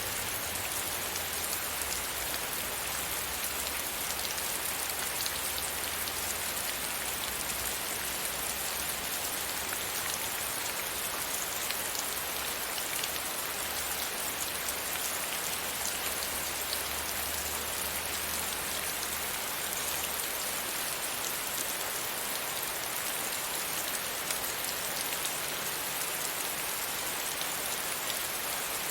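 Steady rain pattering against window glass: a dense, even hiss with many small drop ticks. A faint low rumble underneath stops about two-thirds of the way through.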